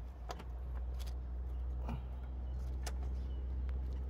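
A steady low engine hum with several sharp metallic clicks about a second apart, typical of parts being handled while a new fuel pressure regulator is fitted.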